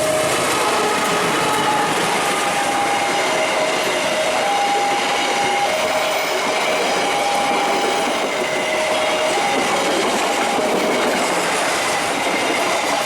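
Passing passenger train, wheels clattering and rumbling steadily along the rails. Over it runs a two-tone signal whose pitch switches back and forth about once a second.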